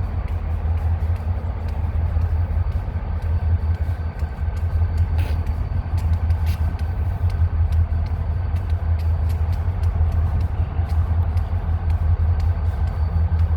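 A steady, strong low engine hum of an idling engine, with faint clicks over it.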